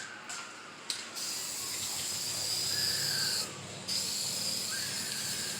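Aerosol spray paint can hissing in two long bursts. The first starts about a second in and stops briefly a little past the middle, then spraying resumes.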